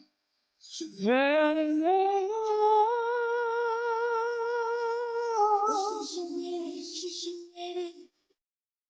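A man's singing voice, with no accompaniment, slides up into a long held high note. He then steps down to a lower held note, which stops shortly before the end.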